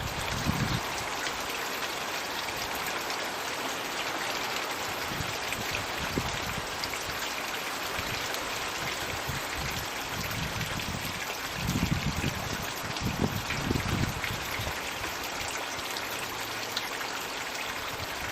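Floating Magic Bucket water feature running in a garden pond: a steady trickle and splash of falling water. A few low rumbles come and go about twelve to fourteen seconds in.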